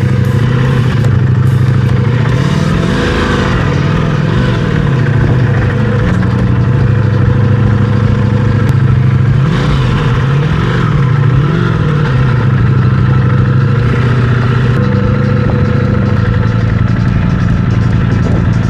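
Motorcycle engine running steadily, its revs rising and falling several times.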